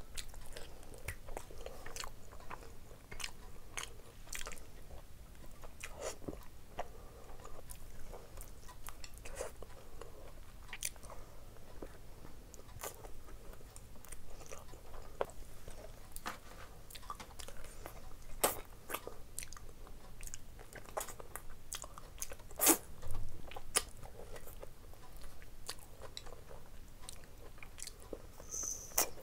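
A person chewing and biting while eating curry and rice by hand: a steady run of small mouth clicks and smacks, with one louder sharp click about three-quarters of the way through.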